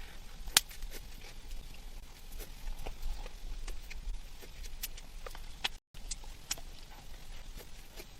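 Irregular light knocks and sharp clicks, a few each second, the loudest just after the start, over a low background rumble.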